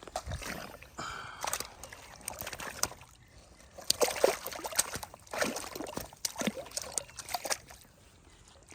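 Water splashing and sloshing in irregular bursts, with sharp slaps mixed in.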